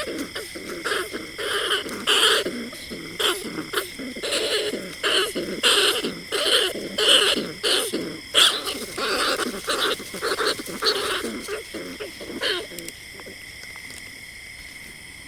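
Bandicoot rat calls: a rapid series of short, harsh calls, several a second, played as a decoy for luring rats at night. The calls stop about 13 seconds in, leaving a steady hiss and a thin, steady high tone.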